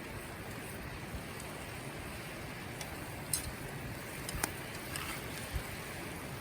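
Campfire cooking sounds: a steady hiss with a few sharp crackles about halfway through.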